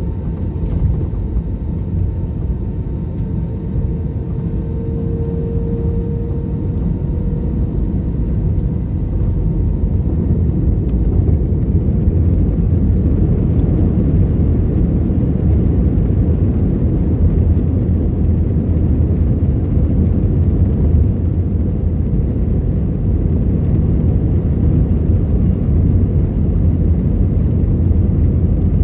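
Airbus A321's two CFM56 turbofan engines heard from inside the cabin during the takeoff roll: a loud, deep, steady rumble that grows louder, with a faint whine rising in pitch, as takeoff (FLEX) thrust is applied about halfway through.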